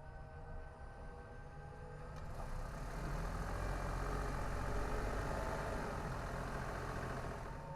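Another vehicle, probably a truck, passing: rumbling road and engine noise that swells over a couple of seconds and then fades away near the end.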